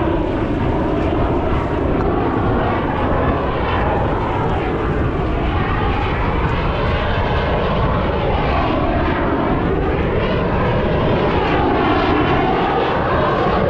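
Fixed-wing airplane flying past, a loud, steady engine rush whose tone slowly sweeps up and down.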